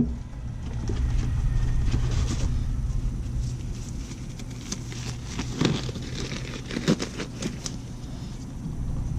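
Disposable glove being pulled on, giving a few short crinkles and snaps about halfway through, over a steady low hum.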